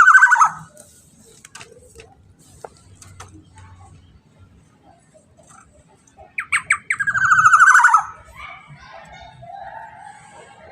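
Black-naped oriole calling: one call ends right at the start, and about six seconds in another comes, a few short notes running into a longer falling note, with faint chirps in between and after.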